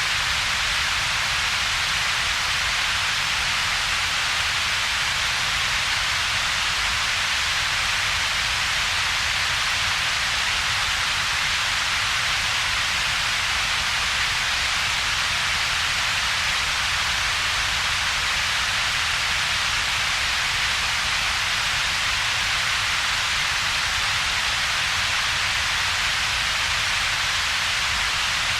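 Synthetic double-peaked colored noise: a steady hiss with a strong band centred around 2–4 kHz and a weaker low rumble band below about 200 Hz, with a gap in between. It does not change.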